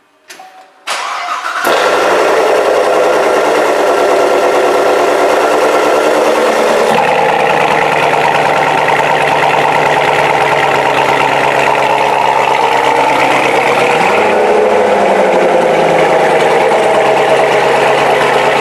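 Corvette Z06's supercharged 6.2-litre V8 being started: a brief crank, then the engine catches with a flare and settles into a loud, steady idle through its quad exhaust. The idle note drops a little about seven seconds in, then rises and falls gently later on.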